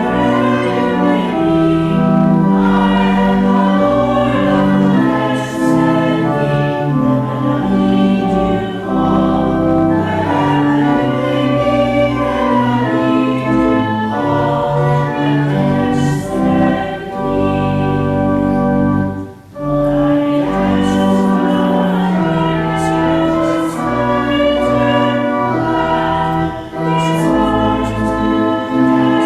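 Church music: a choir singing with organ accompaniment, in long held notes, with a brief break between phrases about two-thirds of the way through.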